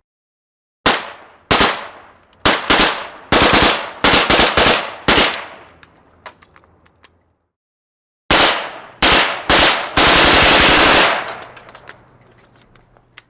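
AK-47 rifle shots: about ten single shots at uneven spacing, each with a ringing tail. After a short pause come three more single shots, then a rapid-fire burst of about a second that dies away with faint ticks.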